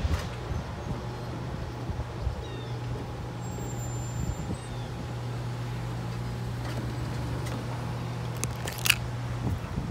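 Steady low hum of a departing train's diesel locomotives after the last car has passed, with a sharp click near the end.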